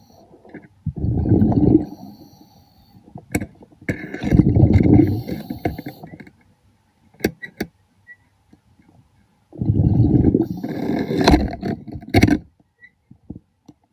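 A diver breathing underwater through a regulator: three bursts of rumbling exhaled bubbles, each a second or two long, with quiet gaps between them and a few sharp clicks.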